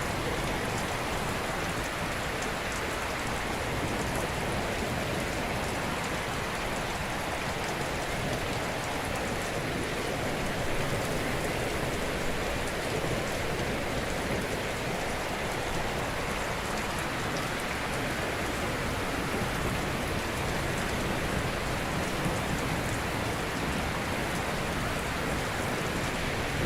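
Ocean surf washing gently on a shore: a steady, even rush of breaking water with no distinct crashes.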